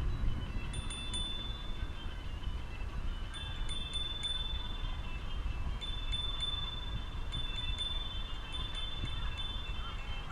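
Small metal bell chiming with high ringing notes, struck in short clusters about every one to two seconds, over a steady low rumble of wind on the microphone.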